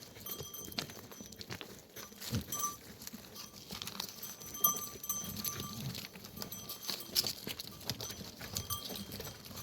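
A flock of sheep and goats, their bells clinking on and off, with a few scattered knocks.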